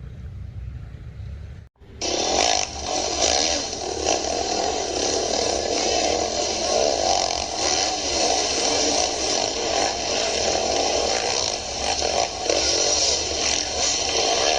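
Dirt bike engine running steadily, starting suddenly about two seconds in after a low hum, with small rises and falls in level.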